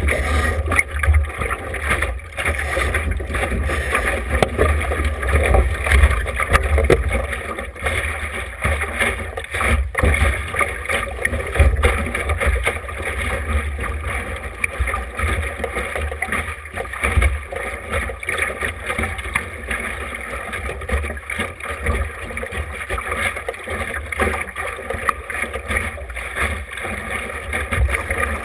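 Wind buffeting the camera microphone with water rushing and splashing along the hull of a small sailboat under way.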